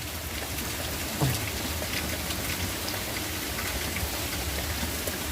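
Steady light rain falling, a dense haze of small raindrop ticks over a low rumble, with a brief low sliding sound about a second in.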